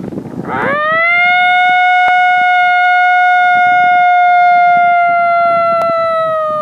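Long coyote howl blown on a mouth-diaphragm predator call: it rises about half a second in, then holds one steady pitch, sagging slightly near the end. Wind buffets the microphone underneath.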